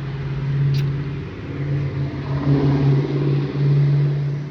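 A motor vehicle's engine running, a steady low hum that swells and dips several times and drops away at the end.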